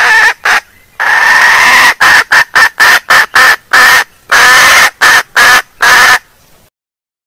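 Female junglefowl (wild hen) calling as a lure: two short calls, a long call, a quick run of short clucking notes, then another long call and a few last notes. The calls are loud, and they stop about a second before the end.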